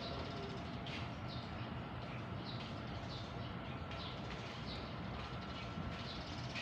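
Small birds chirping, short high chirps repeated about once or twice a second, over a steady low background rumble.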